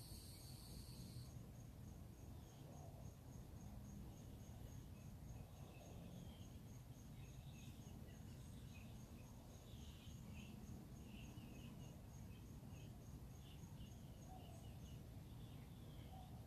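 Faint dawn ambience of insects and birds. A steady high insect buzz stops about a second in, then an insect chirps in an even pulse about three times a second, while birds give scattered short chirps over a low background rumble.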